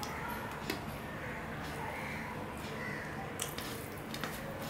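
Close-up eating sounds: wet chewing and lip smacks on a mouthful of rice with dal and curry, with a few short sharp clicks.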